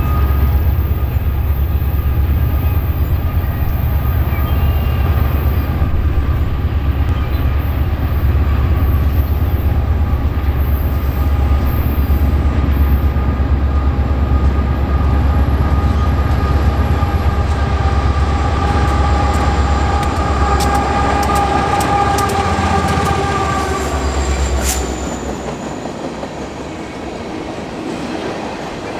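Two Union Pacific diesel freight locomotives pass close by, their engines giving a heavy, steady low rumble with a steady high whine above it. Near the end the engine rumble drops away as a long string of empty hopper cars rolls past, with a few sharp clicks from the wheels.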